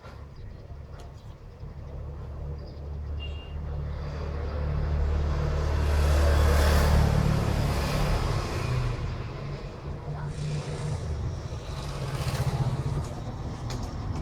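A passing road vehicle: a low rumble and broad noise that grow louder to a peak about seven seconds in, then fade away.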